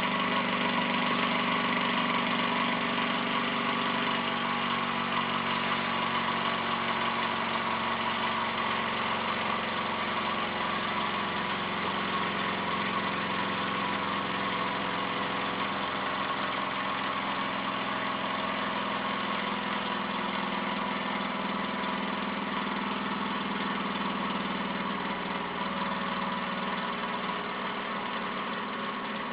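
Gamma-type Stirling engine running steadily, its mechanism giving a continuous whirring hum that shifts slightly in pitch partway through.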